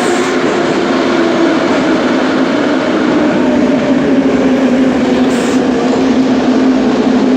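Metro train running: a loud, steady rumble with a low motor hum whose pitch drifts slightly lower.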